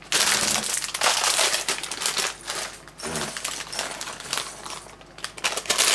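Plastic bag of LEGO pieces crinkling and rustling as it is handled and opened, dense at first, then in irregular bursts with small clicks from the loose plastic pieces inside.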